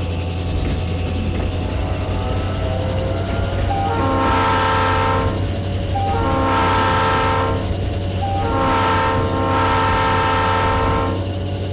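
Train horn sounding three long chord blasts, the last one the longest, over a steady low hum.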